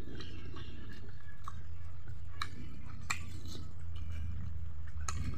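A person chewing a mouthful of rice and pork fat close to the microphone, with several sharp wet mouth clicks and smacks, over a steady low hum.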